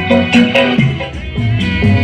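Loud music played through a large sound system during a sound check: a plucked string melody over a steady beat, with a slight dip in loudness midway.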